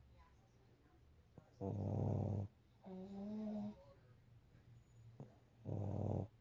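Pug snoring in its sleep, in a slow breathing rhythm: a loud, rough snore, then a quieter, higher and steadier note, and the loud snore again about four seconds later. The snoring comes from the breed's short, flat-faced airway.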